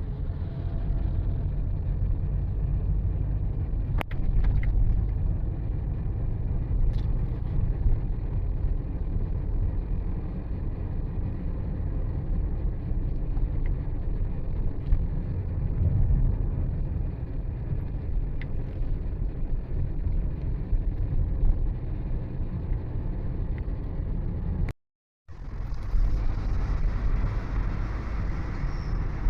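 Steady low rumble of a vehicle travelling along a road. About 25 seconds in, it cuts out completely for half a second, then resumes.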